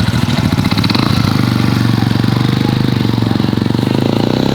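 Small motorcycle engine running steadily close by, its engine note shifting near the end.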